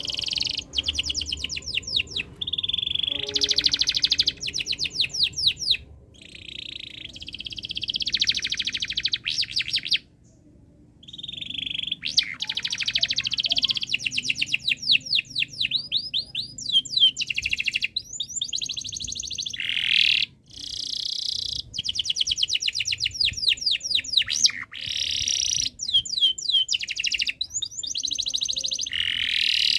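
Domestic canary singing long, fast songs of rapid trills and rolling whistled phrases, with brief breaks about ten and twenty seconds in. It is a bird in breeding condition singing constantly and hard.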